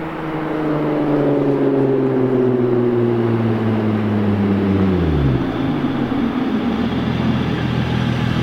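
2006 Infiniti G35 coupe's VQ35DE Rev-Up V6 through test pipes, a Y-pipe and a Tomei single-exit exhaust, engine pitch falling slowly as the revs come down, then dropping sharply about five seconds in and settling to a steady idle.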